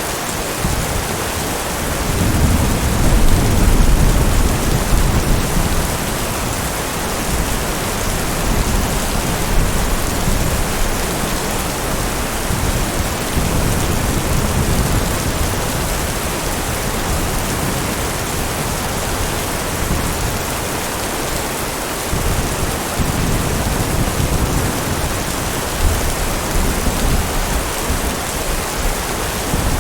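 Steady heavy rain with rolling thunder: a low rumble swells about two seconds in and is loudest a few seconds later, and fainter rumbles return in the last third.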